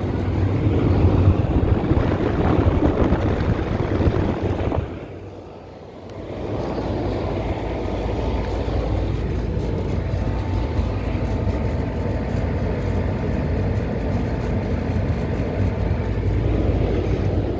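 2018 AirEase central air-conditioner condenser running: steady fan rush over a low compressor hum. It dips briefly about five seconds in, then goes on steadily with a faint high tone.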